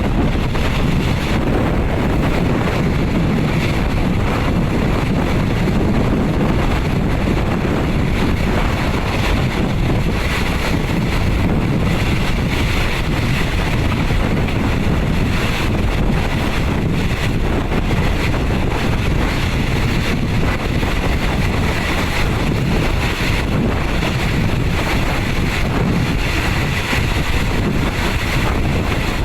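Inside a moving State Railway of Thailand third-class passenger coach: a steady rumble of the train running along the rails, mixed with wind buffeting the microphone.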